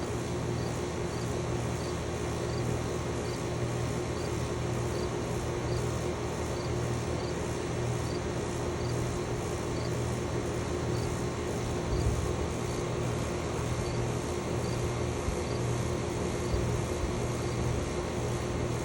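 Outdoor Carrier air conditioner condensing units running: a steady compressor hum with fan noise. Over it, a faint high chirp repeats a little faster than once a second.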